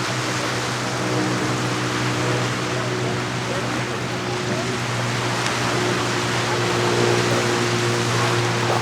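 A boat engine drones steadily with a low hum over a continuous wash of water and waves.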